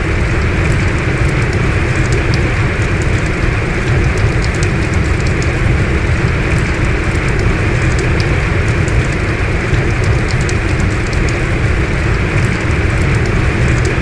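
Heavy rain falling steadily, a dense even hiss with a deep rumble under it and scattered sharp ticks of individual drops hitting nearby.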